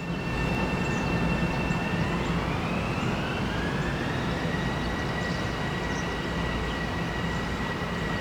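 Metro-North Bombardier M7 electric train running past, with a steady low rumble and several high whining tones from its traction motors. About two seconds in, one whine rises in pitch as the train picks up speed.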